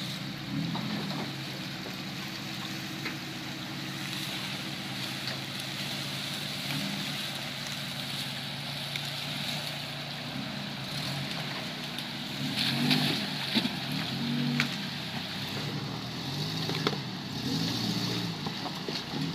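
Off-road 4x4's engine running steadily at low revs, its note rising and falling a few times in the second half, with a few sharp knocks.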